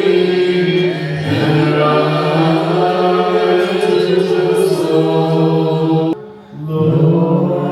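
Voices chanting a Malankara Orthodox liturgical hymn in sustained, melismatic lines. The singing cuts off abruptly about six seconds in and comes back half a second later.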